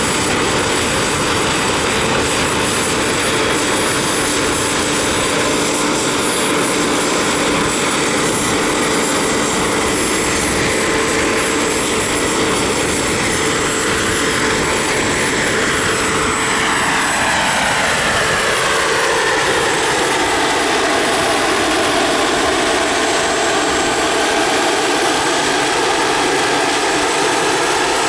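Radio-controlled model helicopter flying, a steady mechanical whine that drops in pitch about halfway through and then holds level.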